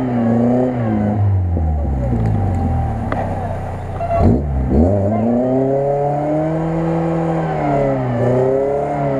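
Lada Niva's engine revving hard while the car sits stuck in bog mud, its revs rising and falling again and again. About four seconds in the revs drop suddenly and climb back up.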